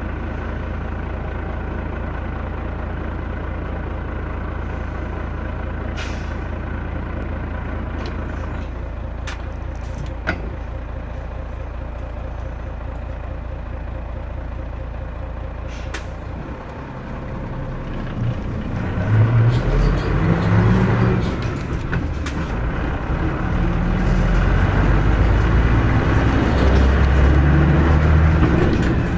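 Mitsubishi Fuso KC-MP317M bus engine heard from inside the bus, idling steadily with a few sharp clicks. About two-thirds of the way in it gets louder and revs up in repeated rising steps as the bus pulls away and accelerates through the gears.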